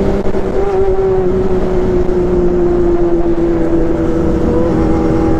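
A motor vehicle's engine running steadily, its pitch slowly falling, over a low rumble.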